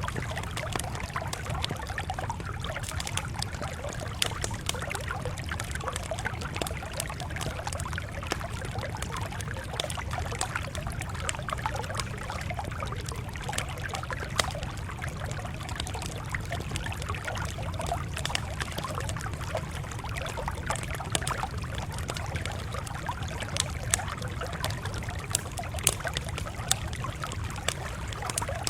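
Campfire crackling: a steady low rumble with frequent irregular sharp pops and snaps.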